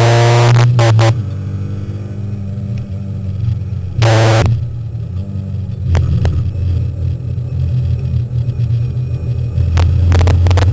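Alpine A310 race car engine heard from inside the cockpit, lapping a circuit at racing pace. Loud hard-revving pulls near the start, about four seconds in, and at the very end, with the engine note dropping and quieter in between.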